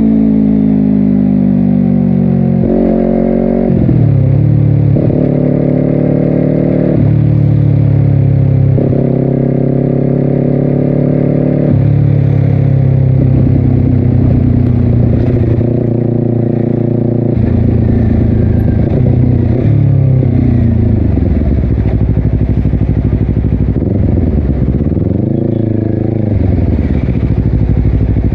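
Honda CBR250RR parallel-twin engine with a Yoshimura exhaust, ridden hard: the revs climb in several quick pulls about three to twelve seconds in as it shifts up through the gears, then settle lower and ease off, with one more rise and fall in revs near the end.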